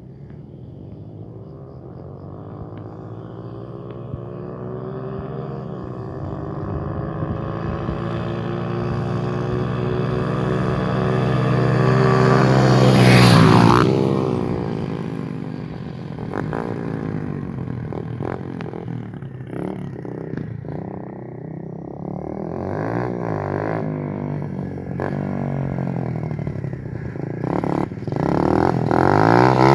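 125cc motorcycle engine buzzing, growing louder as it approaches over about thirteen seconds, then passing close with a sharp drop in pitch. Afterwards the engine note rises and falls repeatedly and grows loud again near the end.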